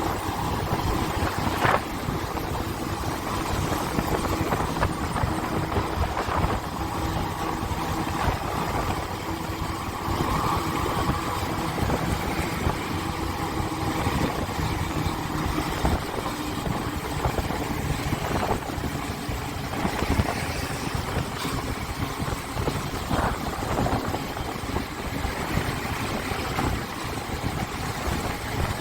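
Motorcycle engine running steadily while riding, over a continuous rush of wind and road noise, with a few brief knocks.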